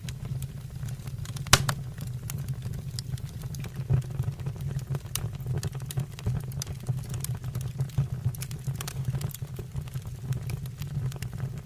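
Fire burning in a fireplace stove, crackling with many sharp snaps over a steady low rumble, with one louder pop about a second and a half in.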